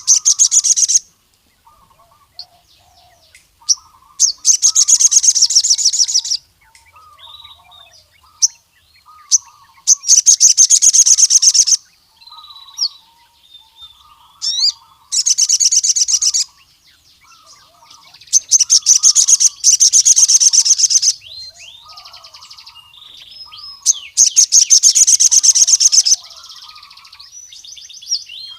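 Male sogon (crimson sunbird) singing in full 'ngkleper' form: loud, very rapid high trills lasting one to two seconds, repeated about every four to six seconds, with softer, lower chirps and short sweeping notes between them.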